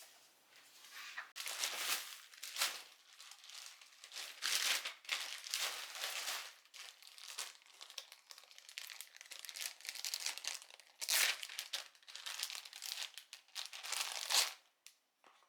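Packaging crinkling and rustling as it is handled in the kitchen, in uneven bursts over several seconds that stop shortly before the end.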